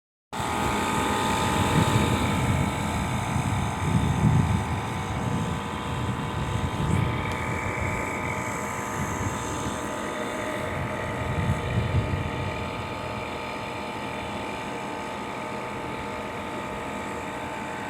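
Comfort Star air conditioner's outdoor unit running: a steady mechanical hum with several fixed tones over fan airflow noise.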